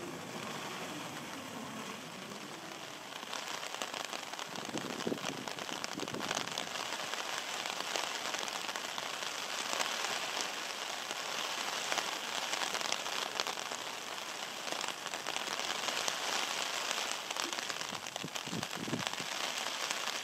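Heavy rain falling steadily, a dense patter of drops on grass and wet pavement, growing a little heavier about three seconds in.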